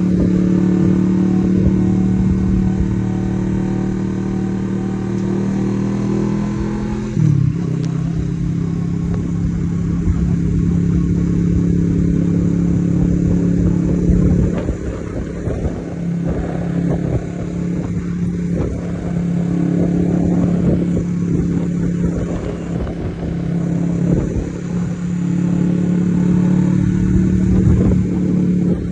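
Kawasaki Z650RS parallel-twin engine running through an aftermarket Akrapovic exhaust, a steady note whose pitch creeps up for about seven seconds, then drops suddenly and runs on with uneven rises and falls in level.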